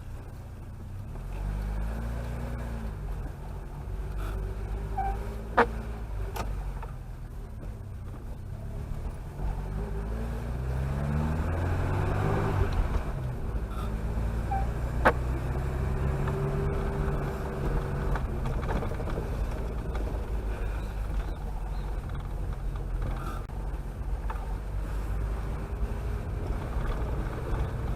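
Chevrolet Chevette's four-cylinder engine and road noise while driving, the engine note rising and falling several times as the car accelerates and shifts gears. Two sharp clicks, about 6 and 15 seconds in.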